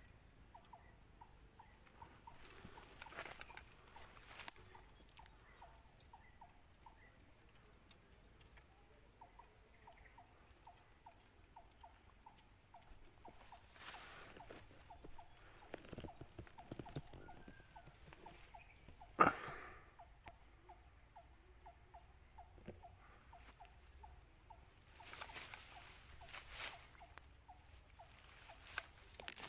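Insects buzzing steadily at a high pitch, with faint rapid ticking through the first half and a few scattered knocks and rustles, the loudest about 19 seconds in.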